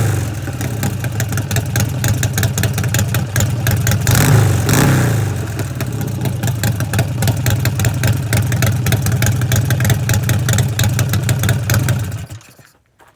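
Buell motorcycle's V-twin engine held at a two-step rev limiter, running with a rapid, even stutter as the limiter cuts in and out. The revs rise and fall once about four seconds in, and the engine cuts off shortly before the end.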